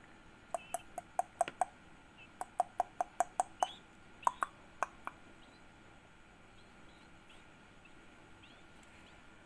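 About fifteen short, sharp clicks in two quick runs over the first five seconds, with faint, high, short chirps from the yellow-vented bulbul chick scattered throughout.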